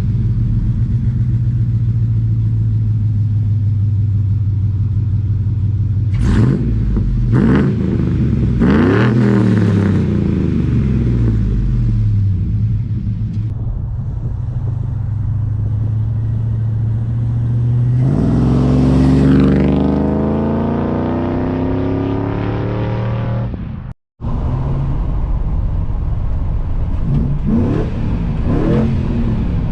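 Catless 6.0-litre V8 of a 2003 Chevrolet Silverado 2500 on long-tube headers, idling and revved with the truck standing still. About six to ten seconds in it is blipped three times quickly. From around eighteen seconds it is revved up and let fall back slowly; after a brief cut there is more idle with a couple of small blips.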